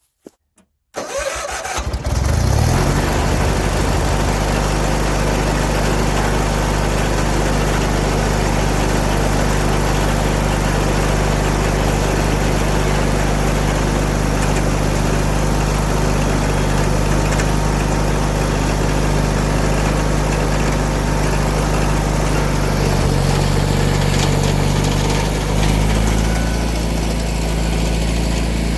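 Garden tractor engine starting about a second in, then running steadily at a constant speed, with a slight change in pitch near the end.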